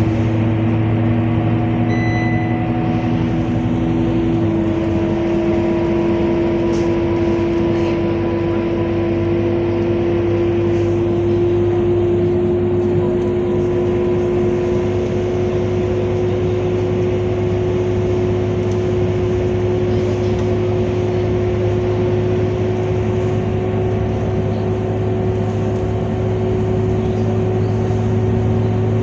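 Scania K230UB bus engine and drivetrain running under way, a steady hum with a high whine that rises slowly in pitch. The engine note changes about four and a half seconds in.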